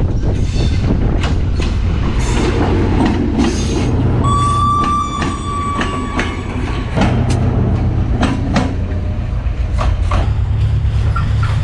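A train rolling past close by, with a heavy steady rumble and repeated sharp clacks of wheels over the rails. About four seconds in, a thin high squeal rings out for about two seconds.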